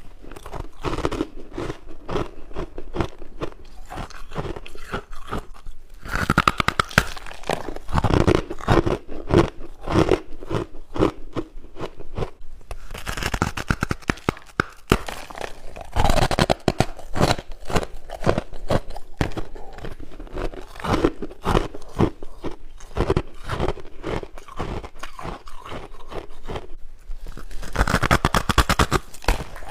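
Someone biting and chewing frost and ice from a humidifier up close: crisp crunching chews, with a few harder bites that break off fresh mouthfuls.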